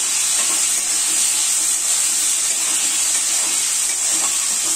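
Sliced onions sizzling steadily in hot oil in a kadai on a low flame.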